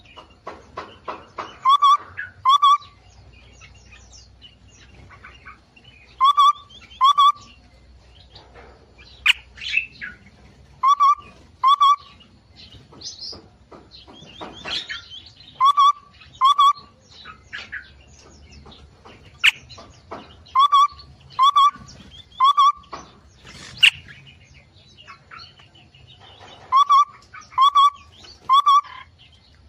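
Several cage birds calling: groups of two or three short, low whistled notes repeat every few seconds, with scattered higher chirps and trills between them.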